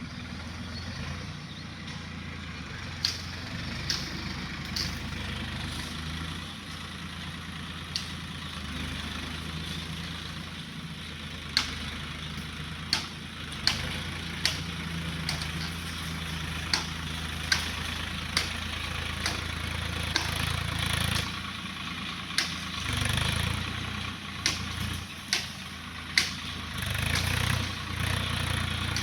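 Swaraj tractor's diesel engine running steadily while working a cultivator, getting louder briefly a couple of times near the end. Short, sharp clicks or knocks come at irregular intervals throughout.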